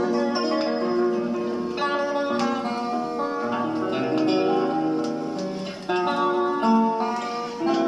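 Instrumental guitar introduction of a Russian romance, played from a vinyl record, with plucked and strummed notes and no singing yet.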